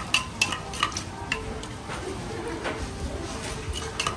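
Papaya salad being pounded and mixed in a mortar with a pestle: irregular sharp knocks, several close together in the first second and a half and sparser after that.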